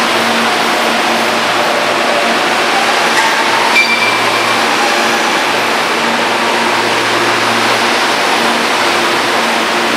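Steady loud rush of a train running at a station platform, with a faint rising whine over the first few seconds and a short high beep about four seconds in.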